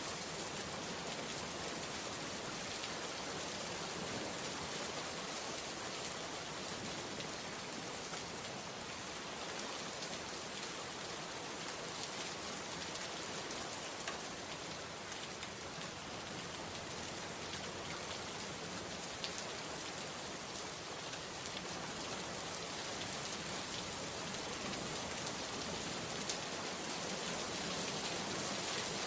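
Steady rainfall, a continuous even hiss with scattered drops ticking on a surface.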